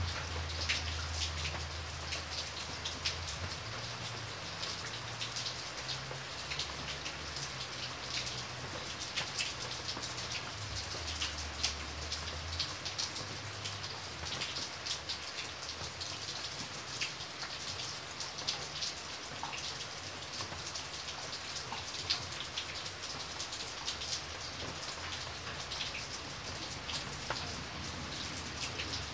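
Heavy, steady rain, with many separate drops striking close by. A low rumble runs underneath for the first dozen seconds, then fades.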